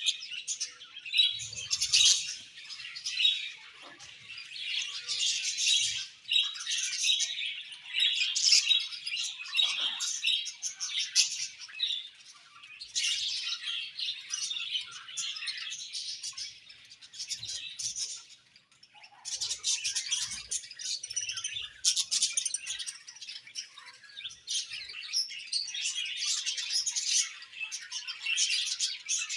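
A colony of budgerigars chattering and chirping, many high twittering calls overlapping in bouts, with a short lull about two-thirds of the way through.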